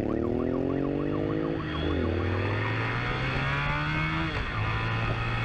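Police siren in a fast yelp, fading out in the first second and a half, over a motorcycle engine accelerating hard, its pitch climbing and then dropping with each gear change.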